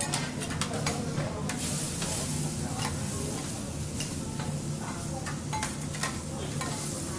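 Food sizzling on a teppanyaki steel griddle, with a steady hiss and irregular sharp clicks and scrapes of metal spatulas against the plate.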